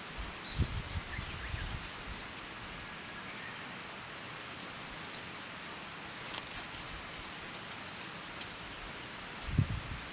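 Outdoor ambience: a steady rustling hiss with a few faint bird chirps early on, scattered small clicks, and two low thumps, one just after the start and one near the end.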